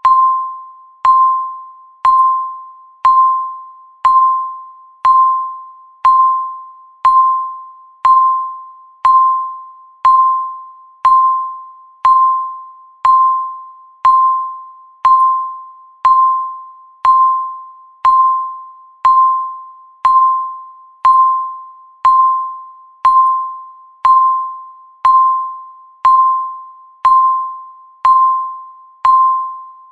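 Countdown timer's tick sound: a single pinging tone once a second, each one ringing and fading before the next, marking off the seconds.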